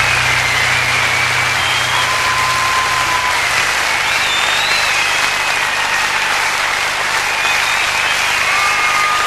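Concert audience applauding and cheering after a song ends, with whistles rising and falling over the clapping. A low steady hum from the stage fades out a few seconds in.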